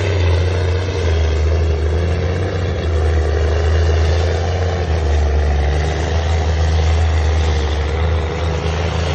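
Heavy logging truck's engine running steadily with a deep, even drone.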